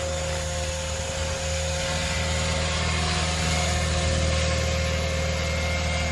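Align T-Rex 550E electric radio-controlled helicopter running steadily: a constant rotor thrum with a steady whine.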